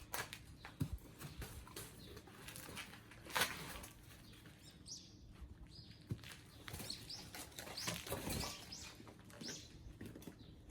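Irregular rustling with scattered light clicks and knocks, like things being handled and moved about.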